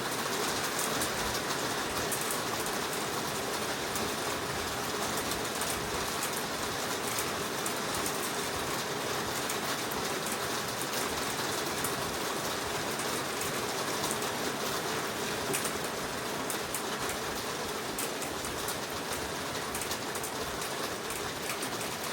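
Heavy rain falling steadily in a forest, a dense even hiss with countless drops pattering on leaves and surfaces.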